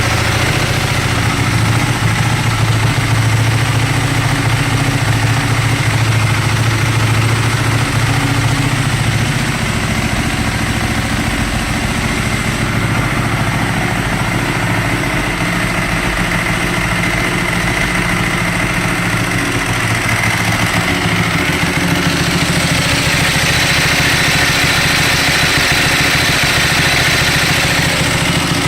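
2012 Ducati Streetfighter S 1098's L-twin engine idling through twin Termignoni exhausts, its note shifting slightly about nine seconds in and again around twenty-two seconds in.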